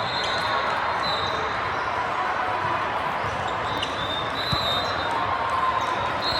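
Game sounds in a gym: sneakers squeaking on the court several times and a single ball thud about four and a half seconds in, over steady crowd chatter.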